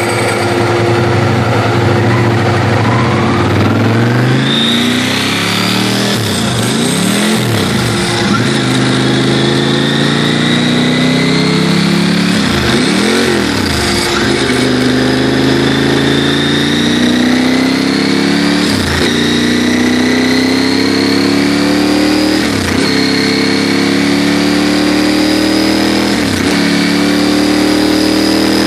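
Ducati 996 90-degree V-twin in a Ducati 748 idling, blipped briefly about five times so the revs rise and fall back.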